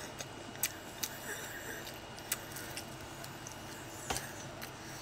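Close-up chewing of a fried tortilla cheeseburger sandwich: scattered small crunches and mouth clicks, sharp and brief, coming irregularly about every half second.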